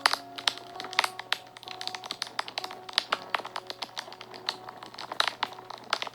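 Wood fire crackling and popping in frequent, irregular sharp snaps, over soft background music of held notes.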